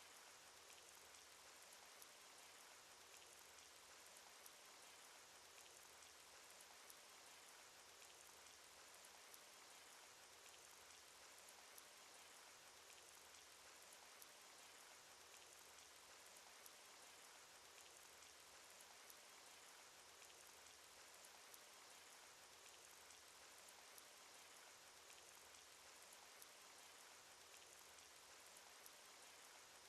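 Faint cartoon rain sound effect: a steady, even hiss of falling rain with many scattered light drop ticks.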